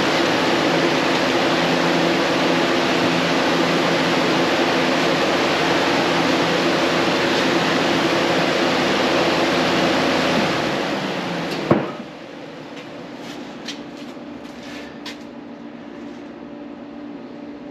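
Steady mechanical whirring noise with a low hum. It fades out about eleven seconds in and ends with a sharp click, leaving quieter background noise with a few light ticks.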